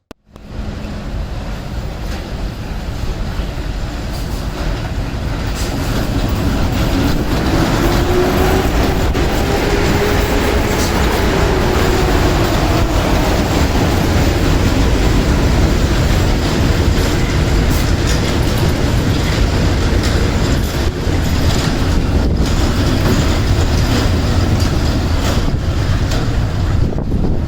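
A Slovak Railways Class 131 electric locomotive with its train running on the tracks, wheels clattering over the rail joints, getting louder over the first several seconds and then staying loud. A faint whine rises and then falls in pitch near the middle.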